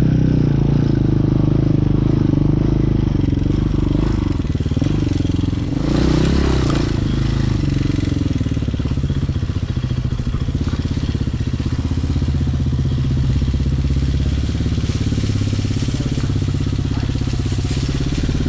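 Hyosung Hawk 250 motorcycle engine running on the move, heard through the action camera's built-in mic. Its note shifts up and down a few seconds in, then runs steadily.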